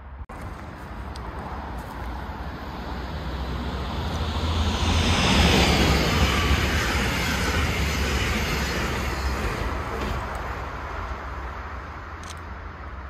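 A train passing by: a rushing noise with a deep rumble builds over about five seconds, peaks, then slowly fades, with a falling swish as it goes past.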